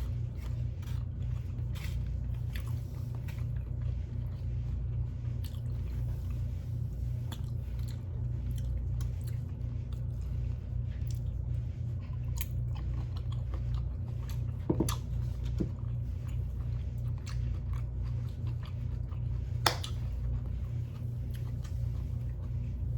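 A person chewing and biting food close to the microphone: a steady run of soft crunches and wet mouth clicks, with a sharper click about 15 seconds in and again about 20 seconds in.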